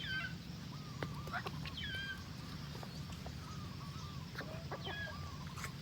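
Farmyard poultry calling: clucking and short, high peeping calls repeated every second or so, over a low steady hum.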